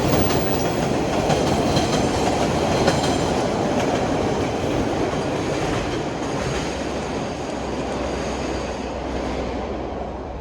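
MBTA commuter rail train running close past on the rails, a loud steady rumble of wheels on track with thin high squeals over it. It eases off slowly toward the end as the train slows into the station.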